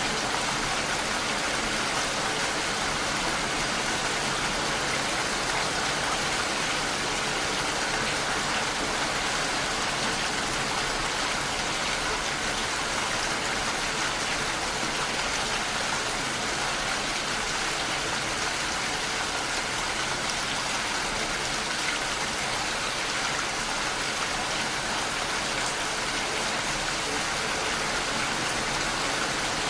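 Steady rain against a window pane, an even hiss that stays the same throughout.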